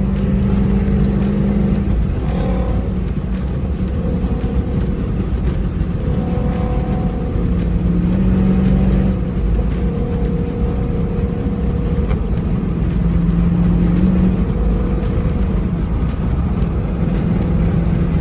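Car engine and road noise heard from inside a moving car, the engine note rising and falling slightly as it drives. A faint tick repeats about once a second throughout.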